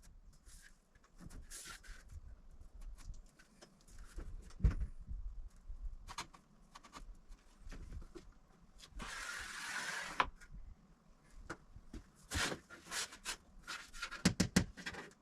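Light knocks and clicks of hand tools being handled against a wooden door, with a scraping rub lasting about a second, about nine seconds in.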